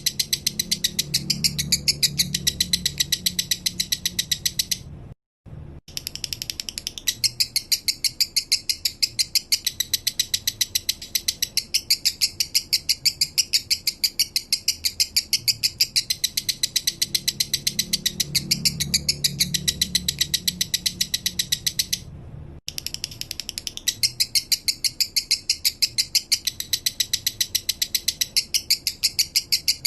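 Male lovebird singing a long run of rapid, evenly spaced high chirps, a steady ticking chatter, broken twice by a brief silent gap.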